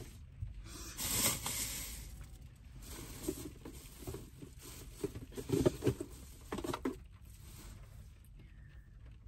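Rustling of a bag or wrappers, then a few light knocks and clunks of containers, as someone rummages through trash for a thrown-away spoon.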